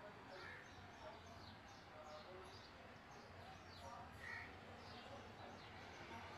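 Near silence with faint bird chirps: short, quick descending chirps, several a second, over a low steady hum.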